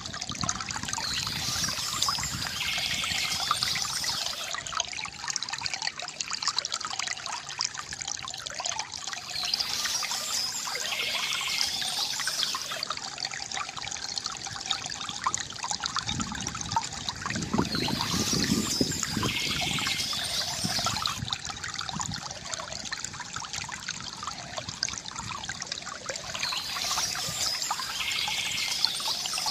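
River water gurgling and trickling steadily, with soft bird chirping that comes back about every nine seconds.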